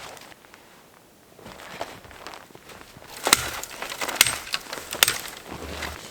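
Footsteps crunching through cold snow, a few sharp crunches roughly a second apart from about halfway in.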